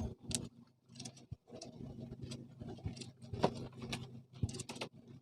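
Irregular light clicks and knocks, a few a second, over a faint steady low hum.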